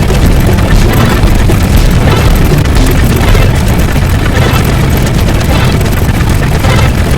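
Loud, continuous rumbling noise, heaviest in the deep bass, used as a sound effect.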